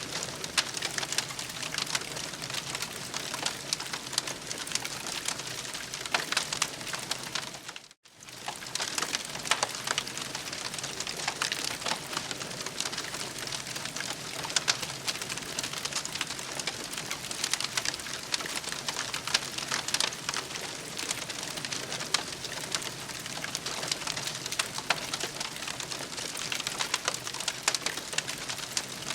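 Campfire crackling and popping steadily, with many sharp irregular snaps over a soft hiss. About eight seconds in the sound drops out for an instant and then picks up again.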